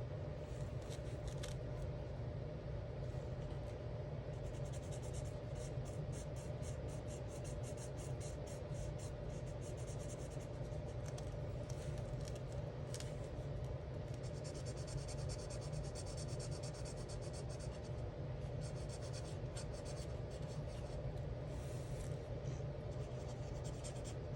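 Alcohol marker nib rubbing on coloring-book paper in runs of quick back-and-forth strokes, with one longer smooth stretch of coloring in the middle. A steady low hum runs underneath.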